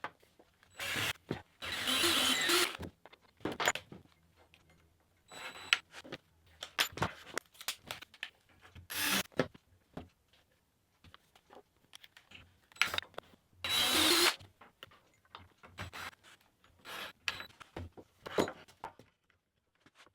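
Power drill boring holes through a wine barrel stave in short bursts of about a second each, with clicks and knocks of handling the wood and drill between them.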